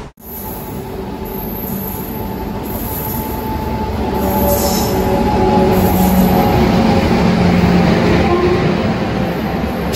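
Locomotive-hauled Indian Railways express passing through a station platform at speed behind an electric locomotive. The rumble of wheels and coaches grows louder toward the middle and holds there, with steady tones running under it.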